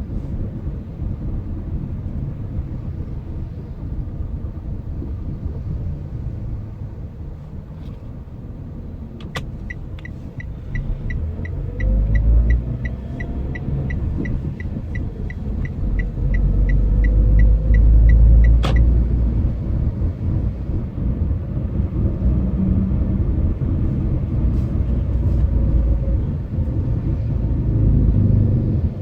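Car driving in city traffic, heard from the cabin: a steady low rumble of engine and road noise that swells twice in the middle. Midway a fast, even ticking runs for about nine seconds, opened and closed by a sharp click.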